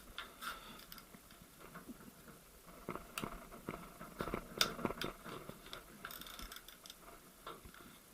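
Irregular light clicks and clinks of metal tools and gearbox parts being handled during manual gearbox disassembly, the sharpest click about four and a half seconds in.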